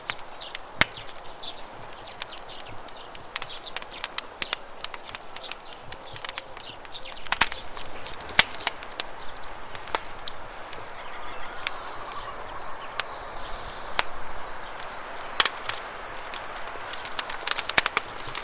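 Campfire crackling, with frequent sharp pops and snaps, over the steady rush of running river water. A thin high whistle is held for a few seconds a little past the middle.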